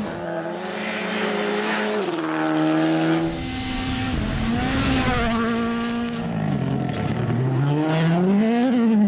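Rally car engine running hard, its pitch holding, dropping and climbing again with throttle and gear changes, with a long climb near the end.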